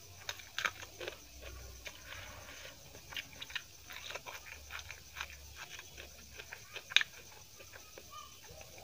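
Close-up chewing and crunching of a person eating with her mouth near the microphone, biting into a raw green chilli and fresh herb sprigs, with many short wet mouth clicks and crunches. The loudest is one sharp crunch about seven seconds in.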